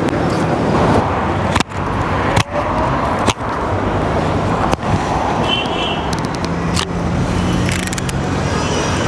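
Road traffic: motor vehicles running past with a steady engine hum and tyre noise, broken by several abrupt brief dropouts.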